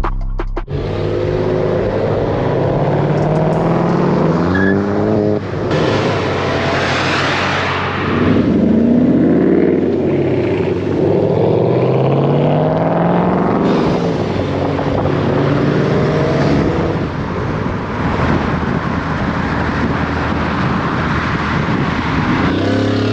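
Pontiac Bonneville's engine pulling hard as the car accelerates, its pitch climbing and dropping back several times as it runs up through the gears.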